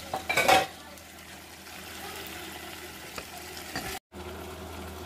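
Chicken pieces sizzling steadily as they fry in a stainless steel saucepan, with a short loud noise about half a second in. The sound cuts out for a moment about four seconds in.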